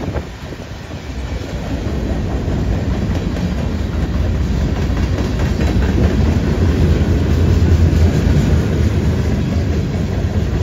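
Freight cars of a passing train rolling by: steel wheels rumbling and clacking on the track in a steady, heavy rumble that grows louder over the first couple of seconds.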